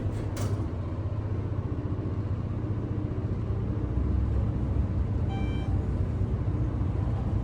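Elevator car (an Otis unit with a Schindler modernization) travelling, with a steady low rumble. A short electronic chime sounds about five seconds in.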